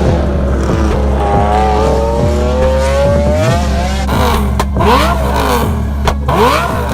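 A high-performance car engine accelerating hard, its pitch climbing steadily, then several quick revs that rise and fall. A few sharp cracks come in the second half.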